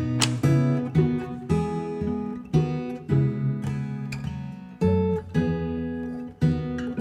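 Background music: strummed acoustic guitar chords, about two strums a second.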